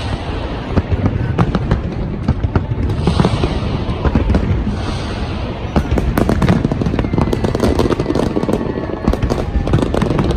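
Fireworks going off in a dense barrage: rapid crackling and popping over continuous low booms, with faint falling whistles in the second half.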